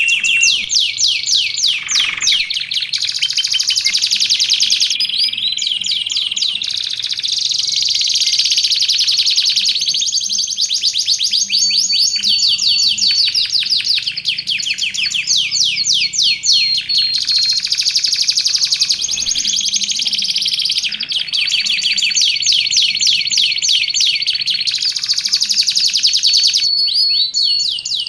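Canary singing a long, continuous song of rapid trills and rolls, with a few held whistled notes in between.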